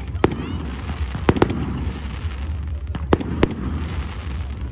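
Fireworks going off: sharp bangs of bursting shells at irregular intervals, a quick run of three a little after a second in and another group around three seconds, over a steady low rumble.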